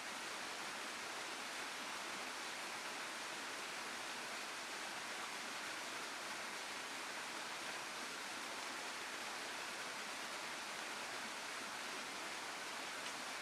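Waterfall water rushing as a steady, even hiss with no breaks.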